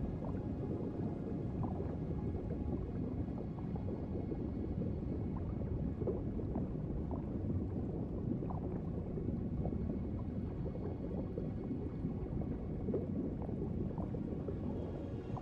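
Underwater ambience: a steady low rush of water with continual bubbling and gurgling.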